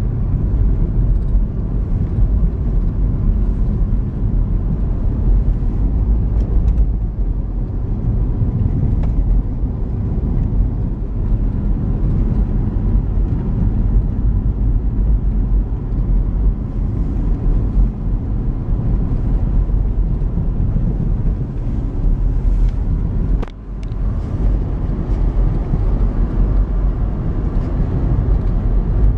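Car driving on snow-covered roads: a steady low rumble of engine and tyres that drops out for an instant about twenty-three seconds in.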